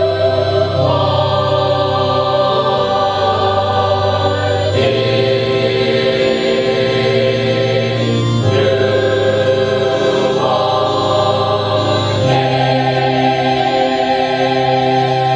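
Choir singing a Christmas piece, holding long sustained chords that move to a new chord every few seconds.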